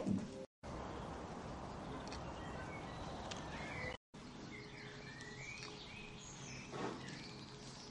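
A steady hiss of background noise, cut off abruptly about four seconds in. Then small birds chirp repeatedly over faint background noise.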